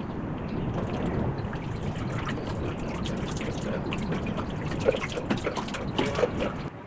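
Water trickling and splashing steadily, with scattered drips and small taps that come more often in the second half.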